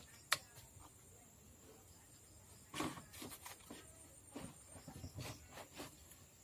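Small clicks and knocks of something being handled by hand: one sharp click near the start, then a run of light clicks and taps from about three seconds in until near the end.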